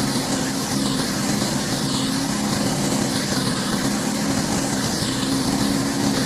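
Engine-driven pressure washer running steadily, its water jet spraying a hard surface. The hiss of the spray swells and fades every couple of seconds over the constant engine hum.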